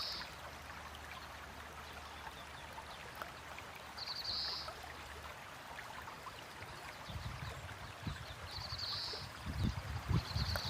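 Heavy rain and running water: a steady wash of water noise, with low rumbles in the last few seconds.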